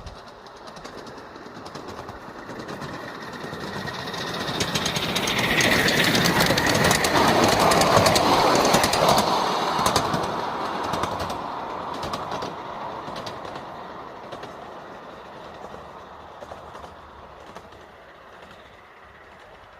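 5-inch gauge live steam locomotive running past on its track, growing louder to a peak about eight seconds in and then fading away, with rapid clicks of wheels over the rails.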